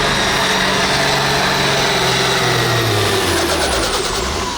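Pulling tractor's engine running loud at high revs, with a high whine over it; about three seconds in, the pitch falls as the revs drop off and the sound eases.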